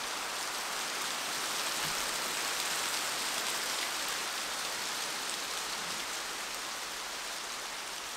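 Steady pouring rain, a dense even hiss of many drops.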